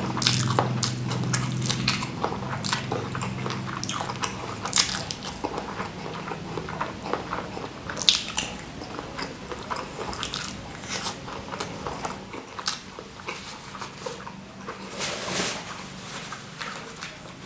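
Close-up chewing and biting: a person eating rice with spicy salted-squid sambal, with irregular wet clicks and crunches and a few sharper bites. A low steady hum sounds in the first few seconds.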